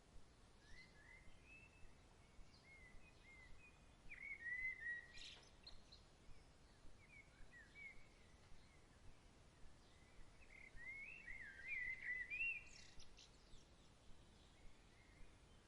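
Songbirds chirping and twittering faintly over a soft background hiss, with a busier run of calls about four seconds in and a longer one near eleven to twelve seconds. A single faint tick about five seconds in.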